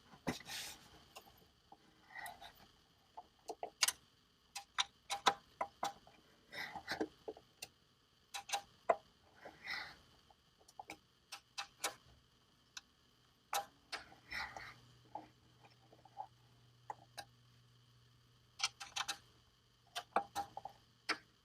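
Irregular metallic clicks and clinks of hand tools working a jack nut as it is tightened into a drilled hole in sheet steel, some with a short ring.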